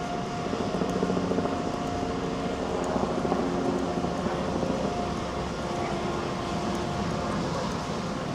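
Busy city street ambience dominated by the steady hum of motor traffic, with several engine tones running under a general noise.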